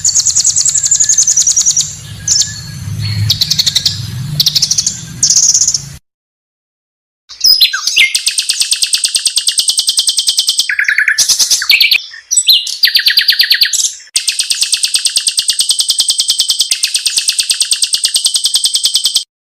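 Pancawarna bird song: long, fast trills of rapidly repeated high notes, broken into phrases by short breaks. There is a sudden dead silence of about a second some six seconds in, and a low hum under the song stops at the same point.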